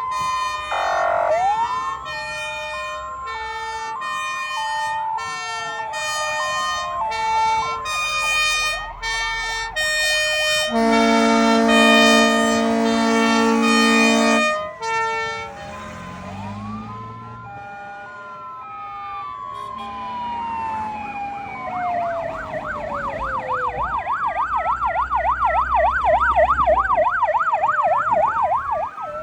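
Several fire engine sirens sounding together: two-tone sirens alternating high and low, slow rising and falling wails, and a long horn blast of about three and a half seconds in the middle. Near the end a fast yelping siren takes over.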